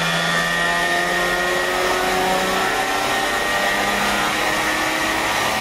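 Lexus IS200's 2.0-litre straight-six pulling at full throttle in fourth gear on a chassis dyno, revs climbing steadily from about 3,300 to 4,000 rpm. It is running unboosted, with intake pressure at about atmospheric.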